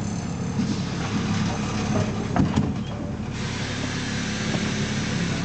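BMC Belde 220-SLF city bus's diesel engine running steadily, with a single knock about two and a half seconds in and a steady hiss joining about a second later.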